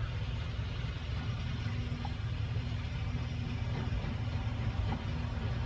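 CAT 323 excavator's diesel engine idling steadily, a low even hum.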